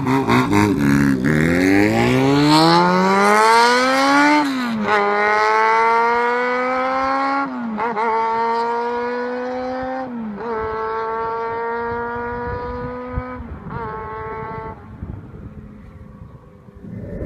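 Honda CBR400F's inline-four engine, breathing through a cut-down and re-extended RPM racing exhaust, accelerating hard. It revs high in first gear, then snaps up through about five gears, each shift a quick drop in pitch followed by a climb. It fades away over the last few seconds.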